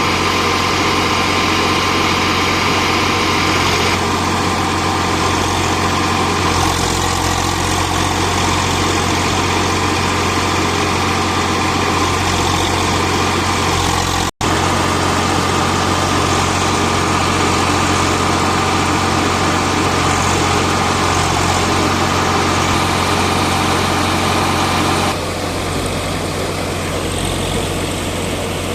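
Swaraj 735 FE tractor's diesel engine running steadily, driving a threshing machine. It cuts out for an instant about halfway through and becomes a little quieter near the end.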